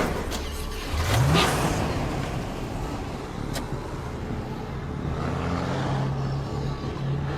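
A car engine revs up briefly about a second in over steady traffic-like rumble, with a single sharp click a little past the middle and a steady low engine hum after it.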